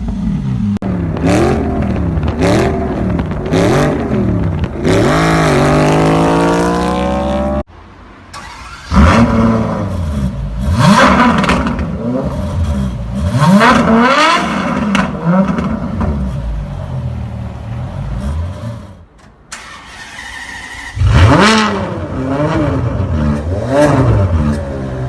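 Car engines revving hard in repeated blips, the pitch climbing and dropping again and again. The sound changes abruptly twice, as if cut between different cars, and is briefly quieter just after the first cut.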